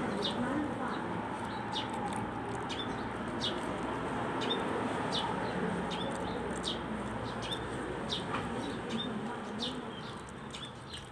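A small bird chirping over and over: short, high, falling notes about once a second, over a steady background hiss.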